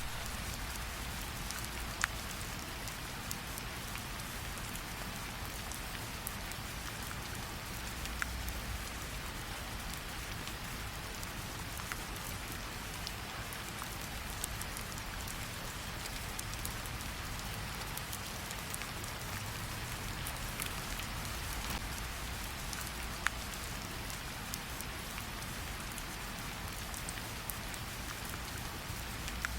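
Steady rain hissing, with a low rumble underneath and a fireplace crackling, a few sharp pops standing out about 2, 8 and 23 seconds in.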